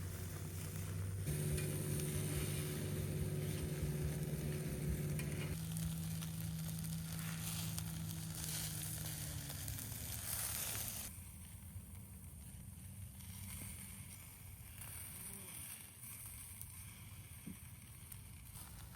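A small electric air pump runs with a steady motor hum and a rush of air, as if inflating an inflatable tent. Its pitch winds down and the pump stops about ten seconds in, leaving faint outdoor background.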